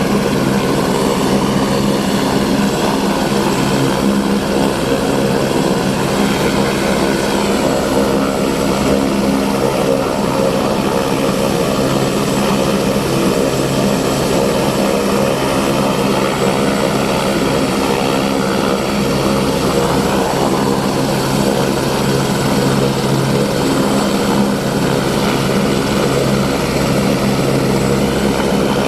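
Helicopter in flight, its engine and rotor running with a loud, steady drone that holds evenly throughout.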